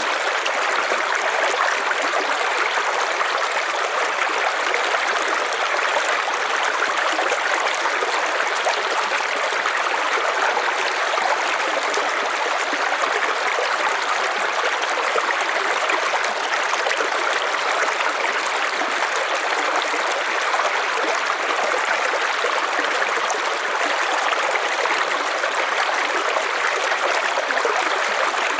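River water flowing steadily over rocks, a continuous rushing and trickling without change.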